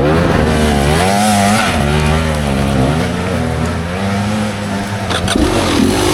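Motorcycle engine running under changing throttle, its pitch rising and falling over and over.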